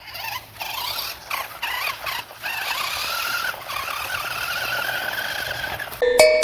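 Electric motor of a radio-controlled monster truck whining, its pitch wavering up and down with the throttle over a steady hiss, cutting back briefly several times.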